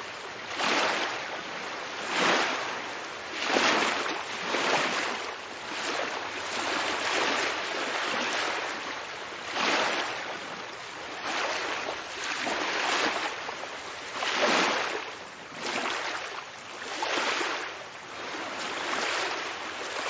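Ocean waves washing in: a continuous rushing hiss that swells and falls back roughly every one to two seconds.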